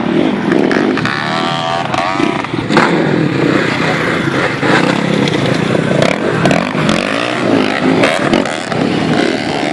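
Motocross bike engines running hard, revving up and down as they rise and fall in pitch.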